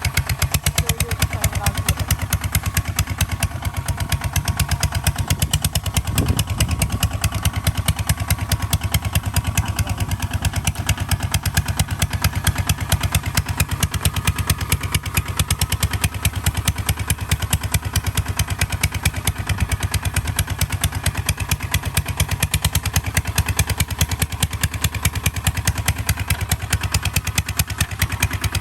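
Kubota ZT155 DI single-cylinder diesel engine of a tractor running steadily, with a rapid, even beat of firing strokes and some clatter.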